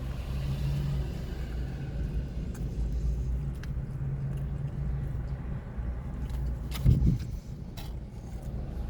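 Steady low rumble of a car engine idling, with a few faint clicks and a louder thump about seven seconds in.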